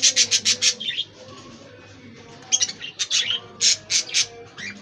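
Budgerigars chirping in rapid strings of sharp, high calls: one run dies away about a second in, and another flurry comes between about two and a half and four seconds.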